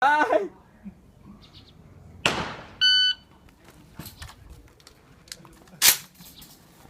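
A short electronic beep about three seconds in, between scattered clicks and knocks, with a loud noisy burst just before it and another sharp one near the end.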